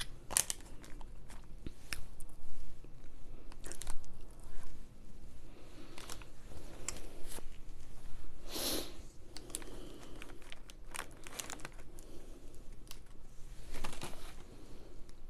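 Close-miked mouth sounds of someone biting into and chewing a burger, with scattered wet smacks and clicks, mixed with paper crinkling. A louder crinkle comes about halfway through.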